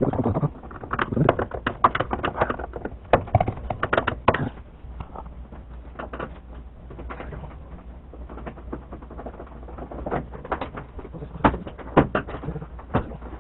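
Clicks, taps and light knocks of tools and hard plastic and metal parts being handled while a washing machine is taken apart. A quick run of clicks in the first four seconds or so gives way to scattered ones, with a few sharper knocks near the end.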